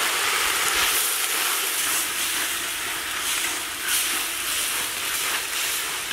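Sliced ivy gourd sizzling steadily in oil in a large iron kadai while it is stirred and turned with a ladle.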